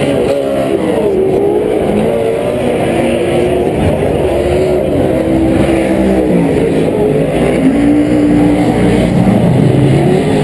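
Several Pro 4 four-wheel-drive short-course off-road race trucks running hard together, their V8 engines revving up and down through the gears so that several engine notes rise, fall and overlap.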